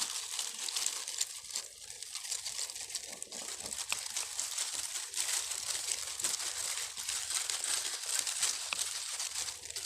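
Continuous close rustling and crackling of foliage and twigs being handled, made up of many small crackles.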